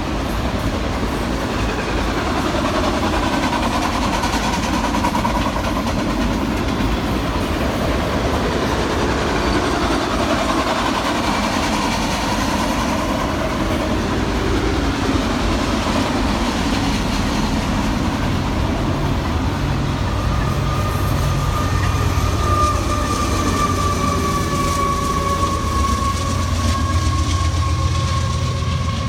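Union Pacific train rolling past, a continuous rumble of wheels on rail and cars, with a steady high-pitched tone and a stronger low engine hum in the last third.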